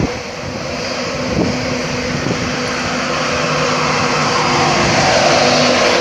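A train running through the station, growing steadily louder as it approaches, with a steady hum over its running noise.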